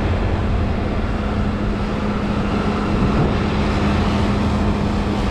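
Heavy diesel machine engine running steadily at a constant speed, a low rumble with a steady hum.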